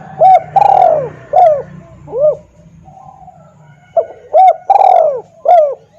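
Spotted dove cooing: two phrases of about four arched coos each, one at the start and one about four seconds in, with the second coo of each phrase drawn out longer than the others.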